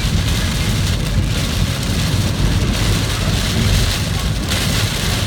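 Heavy rain falling in a steady, loud hiss, over a constant low rumble.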